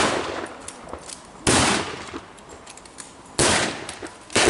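Blank gunshots from a mock battle re-enactment: four loud single shots, spaced one to two seconds apart, each followed by a short echoing tail.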